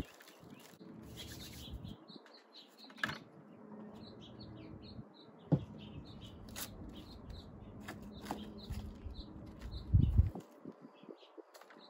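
Small birds chirping over and over in the background while food scraps are handled into a small plastic container, with a few sharp knocks and a loud low thump near the end.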